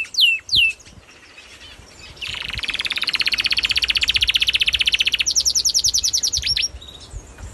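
Birds singing: three quick down-slurred whistles, then a long rapid trill that jumps higher and faster partway through before ending in a couple of down-slurred notes.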